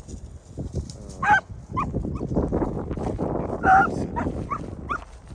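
A dog barking in the distance: a run of short barks, with two longer, louder calls about a second in and near four seconds in. Wind rumbles on the microphone throughout.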